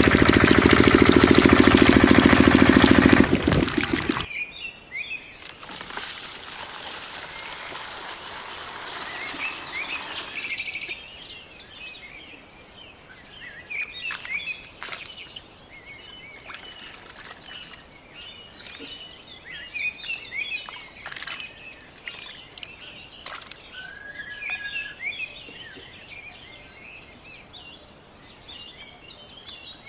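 Mini diesel engine of a toy water pump running loudly, then cutting off suddenly about four seconds in. Water pours for several seconds after that, and birds chirp repeatedly for the rest.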